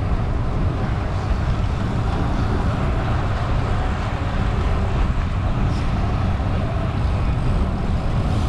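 Steady rush of wind on the microphone of a moving bicycle, with road and tyre noise underneath, heaviest in the low end.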